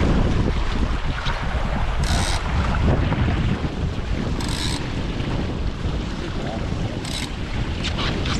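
Wind buffeting the microphone and water rushing past the hulls of a Hobie 16 catamaran under sail, a steady low rumble. Three brief hisses come high over it, about two, four and a half, and seven seconds in.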